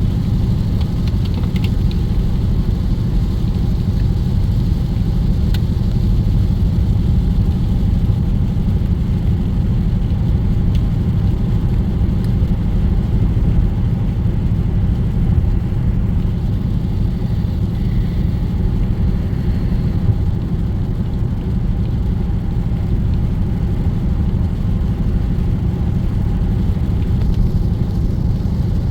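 Steady low drone inside the cabin of a Dodge Scat Pack cruising at highway speed, its 6.4-litre HEMI V8 and tyre noise running together without change.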